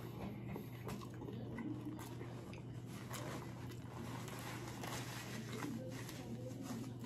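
A person chewing a mouthful of fried rice and egg roll, with soft wet mouth clicks, over a steady low hum; a paper napkin rustles as the hands are wiped near the end.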